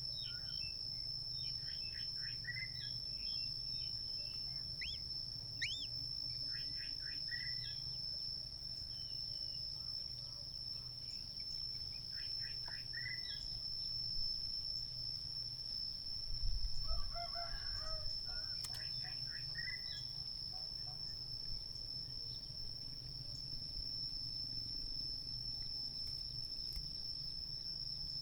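Crickets trilling steadily on one high note while birds chirp in short scattered bursts. A louder, lower call comes about 17 seconds in.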